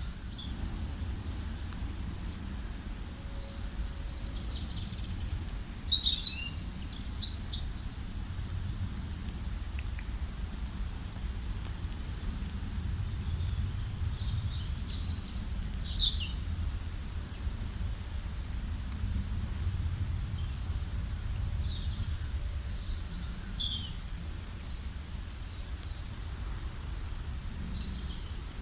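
Songbirds chirping and singing in short high-pitched trills and calls, in clusters that are loudest about 7 seconds in and again around 15 and 23 seconds, over a steady low rumble.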